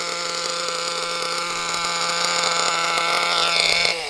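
Single-cylinder SH .21 nitro engine of an HSP 1/8 RC monster truck running steadily at idle, its fuel tank practically empty. Near the end the revs sag and it begins to wind down.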